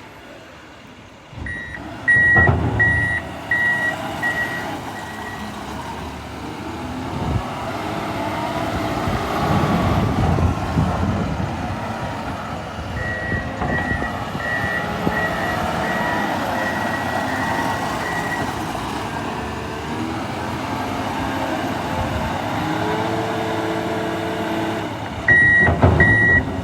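John Deere 544L wheel loader's diesel engine working, rising in level around the middle, with a reversing alarm beeping about twice a second in three spells. Loud clunks come near the start and again near the end.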